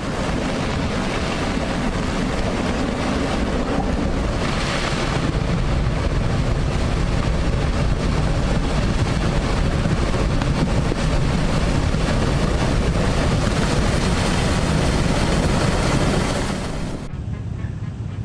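Tsunami floodwater rushing through streets and carrying cars away: a loud, steady rush of water noise, with wind buffeting the microphone. About 17 seconds in it cuts abruptly to a quieter, duller rushing noise.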